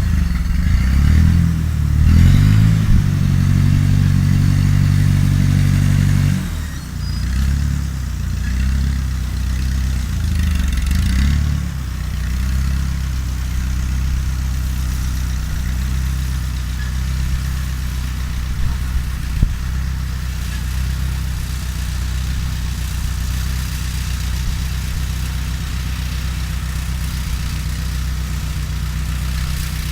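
Fiat 352c tractor engine running, working harder for the first few seconds, then dropping in speed about six seconds in. It varies in pitch until about twelve seconds in, then settles to a steady lower speed, close to idle.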